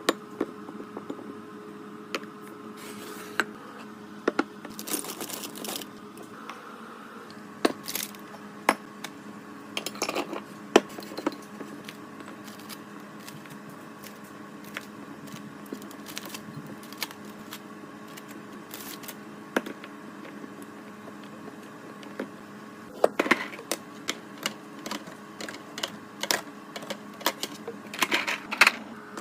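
Irregular clicks, taps and clatter of food containers and packaging being handled and set down while a refrigerator is restocked, with a steady hum underneath.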